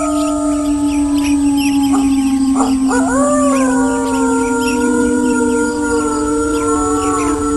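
Wolves howling in chorus: several long overlapping howls, one low and held steady throughout while others swoop up and waver from about three seconds in.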